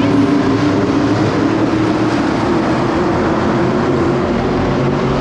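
Stock car racing engines running at speed on an oval track, a loud steady engine note that climbs a little in pitch in the second half.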